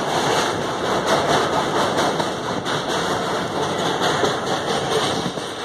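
Indian Railways sleeper-class express train running at speed, heard from inside the coach at the window: a steady, noisy rumble and rattle of the wheels on the track.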